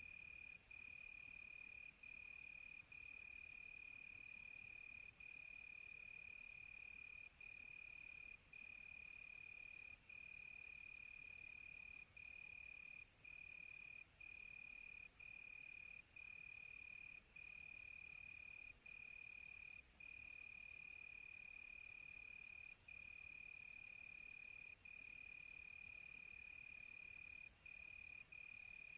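Crickets trilling: one steady, high-pitched trill broken by brief gaps every second or so, over a fainter high hiss of more insects.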